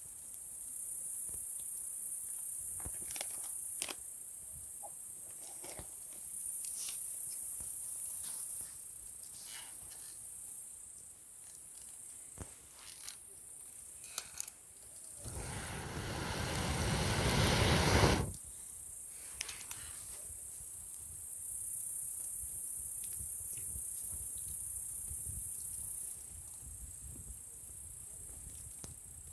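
Wood campfire crackling with scattered sharp pops, under a steady high chirring of insects that comes and goes in long stretches. About halfway through, a rushing whoosh of air builds for about three seconds, growing louder, then stops abruptly.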